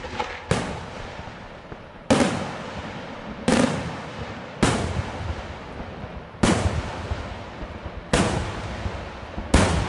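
Aerial firework shells bursting one after another, seven loud reports about every second and a half, each trailing off into a long fading rumble.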